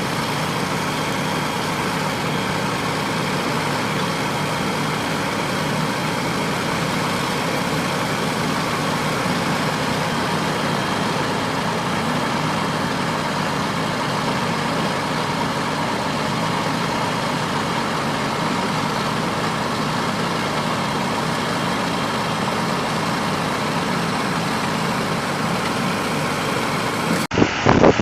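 A heavy vehicle engine running steadily at an even level.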